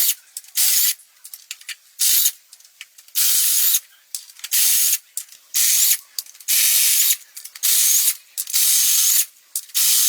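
A spray nozzle hissing in repeated short bursts, about ten in all, each under a second long, with small clicks between them.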